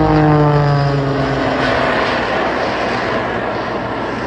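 Jet Pitts aerobatic biplane, a piston-engined Pitts with two added jet turbines, flying past. The engine and propeller note drops steadily in pitch as it passes, then blends into a broad rushing jet noise that slowly fades.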